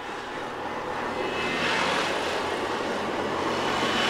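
Diesel railcar passing close by, its engine and wheels on the rails growing louder over the first two seconds, then holding steady.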